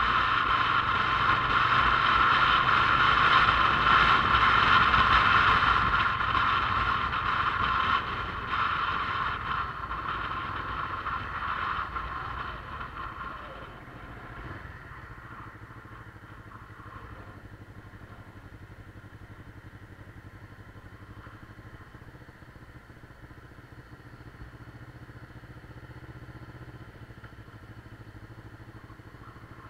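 Motorcycle engine running while riding, loud for the first dozen seconds, then easing off about halfway through to a quieter, steady running.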